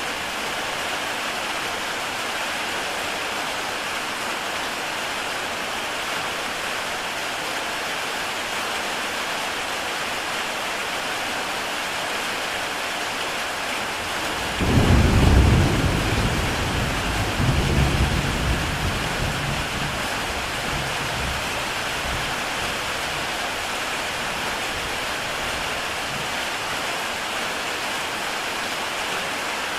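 Heavy rain falling steadily on a tile roof, with a deep rumble of thunder about halfway through that swells twice and fades away over several seconds.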